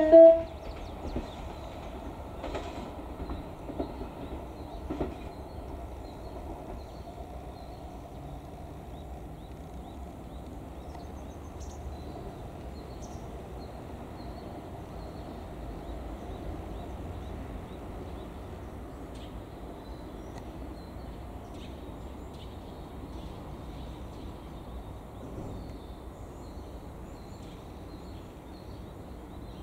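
E129 series electric train running away along the track, its wheels clicking over rail joints a few times in the first five seconds, then a low steady rumble.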